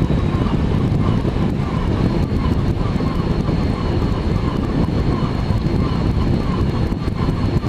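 Steady cockpit noise of a Boeing 767 in flight: an even rush of airflow and engine noise, heaviest in the low range, with a faint thin high tone coming in about two seconds in.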